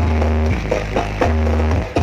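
Loud electronic dance music played through a large 'sound horeg' street sound system, with a heavy bass note pulsing about twice a second under a melody.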